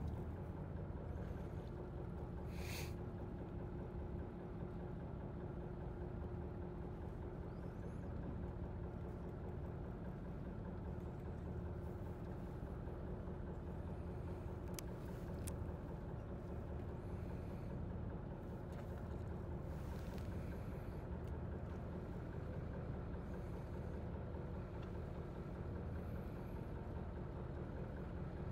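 Fishing boat's engine running steadily with a low, even hum, and a few brief clicks and rustles over it.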